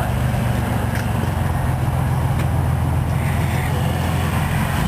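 Steady low rumble of a car in motion, engine and road noise, with a couple of faint clicks.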